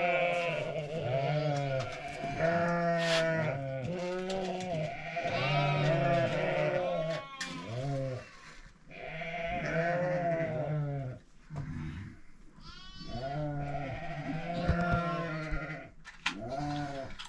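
A flock of sheep and goats bleating, many calls overlapping one after another with only brief lulls.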